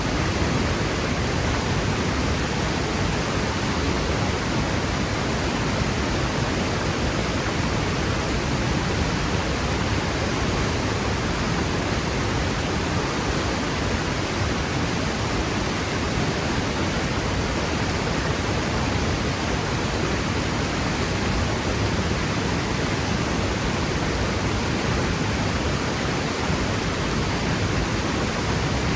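Franklin Falls waterfall pouring down, a steady even rush of falling water.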